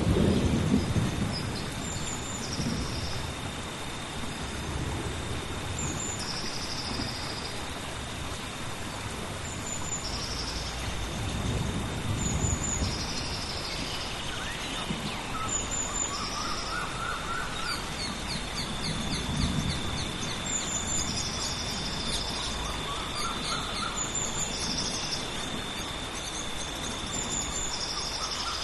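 Tropical rainforest rainstorm: steady rain with low rolls of thunder at the start and twice more. Over it, a bird repeats a short high two-part call every couple of seconds, an insect keeps up a steady high drone, and a few short series of rising chirps come in.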